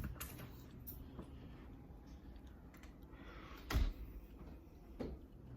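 Quiet room tone broken by one sharp thump a little past halfway and a lighter knock near the end.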